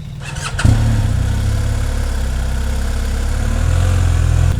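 Motorcycle engine running steadily, louder from about a second in.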